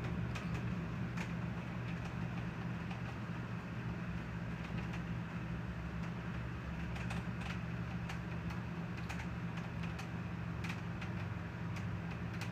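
Rain in a thunderstorm: irregular sharp ticks of drops striking a hard surface over a steady low hum.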